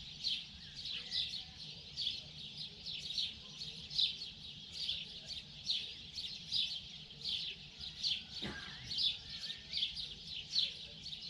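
Morning birdsong: birds chirping in quick, repeated short notes, one to two a second, over a faint steady low hum.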